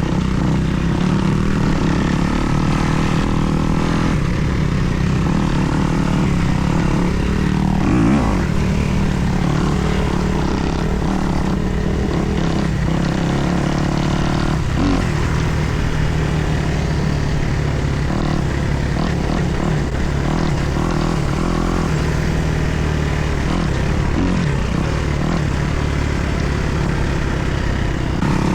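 Kawasaki KX250 motocross bike's single-cylinder four-stroke engine running steadily while ridden, with a few brief knocks along the way.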